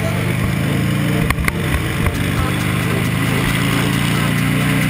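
Buell XB12R's air-cooled V-twin engine running at steady cruising throttle, with wind rushing past the microphone. A couple of sharp knocks sound about a second and a half in.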